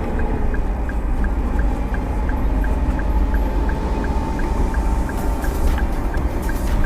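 Car cabin while driving in heavy rain: a steady low road rumble under a wash of rain and water noise, with a faint regular ticking about three times a second.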